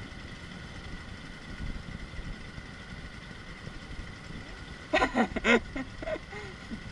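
A steady low rumble with a faint high steady tone runs under everything. About five seconds in, a person's voice gives a brief loud burst of wordless vocalising, then two fainter sounds.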